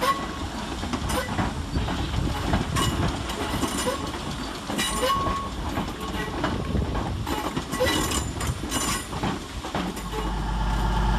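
Merseyrail Class 508 electric train rolling slowly into the platform, wheels clicking over rail joints with short squeals. A steady low hum sets in near the end.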